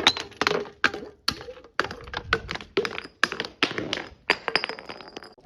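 Glass being struck and smashed over and over: about a dozen sharp cracks and clinks, roughly two to three a second, several leaving a brief glassy ring.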